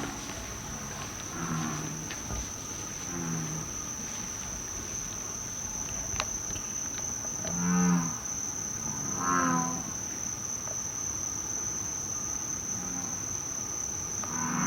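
American bullfrogs calling: a series of deep, pitched croaks, about seven in all, the two loudest past the middle. A steady high insect trill runs underneath.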